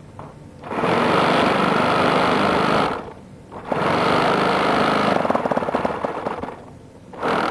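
A model aircraft's 90-size four-stroke glow engine is being turned over in two bursts of a couple of seconds each, with a rapid mechanical buzz. It is not catching because it is flooded, and the second burst trails off unevenly.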